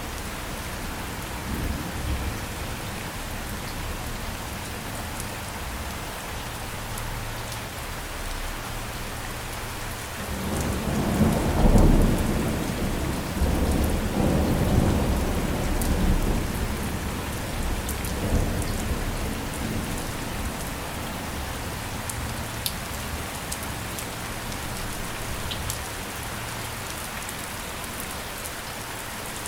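Steady rain falling. About ten seconds in, a roll of thunder rumbles in deep and low, swells to its loudest a couple of seconds later, then rolls away over the next several seconds.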